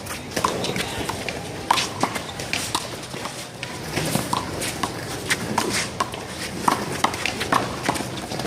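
One-wall handball rally: sharp, irregular slaps of the small rubber ball off players' hands, the wall and the pavement, several a second, with quick footsteps of running players.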